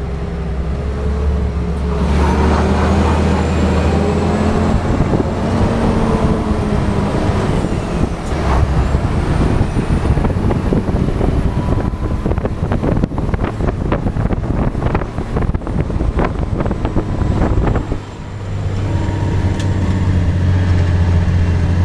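Scania R420 truck's diesel engine running with a steady low hum. For most of the stretch it is joined by a loud rushing noise and many sharp rattles and knocks, as on a rough road; near the end the rattling stops and the steady engine hum returns.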